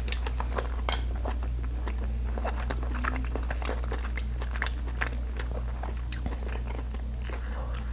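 Close-miked eating of boiled mussels: chewing with many small wet mouth clicks, and the clack of mussel shells being handled, over a steady low hum.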